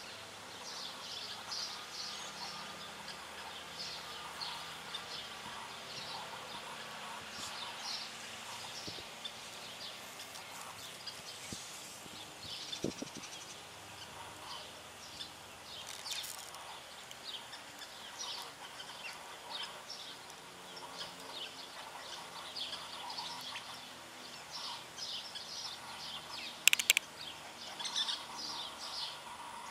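Small birds chirping over and over in the background, short high calls scattered throughout, with one sharp, much louder click near the end.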